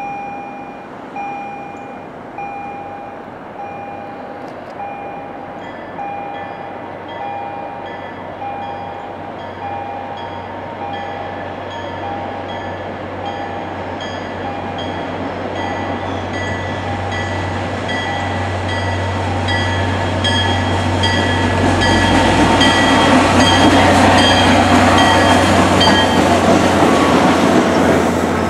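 An MBTA commuter train hauled by a diesel locomotive approaches and passes, its engine and wheels growing steadily louder and loudest near the end. Throughout, a warning bell dings about once a second, and a second bell with a higher ring joins a few seconds in.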